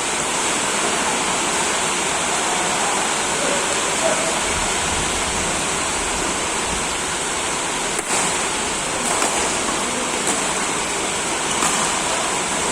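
Steady rushing noise, with a few sharp clicks in the second half about a second apart: badminton rackets striking a shuttlecock in a rally.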